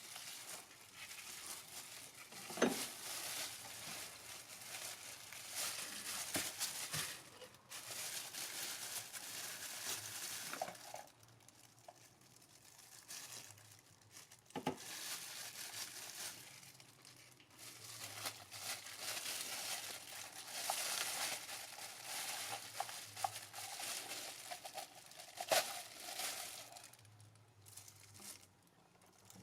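Hands pulling the old cartridge oil filter off its plastic housing cap: rustling and crinkling handling noise, broken by scattered clicks and light knocks.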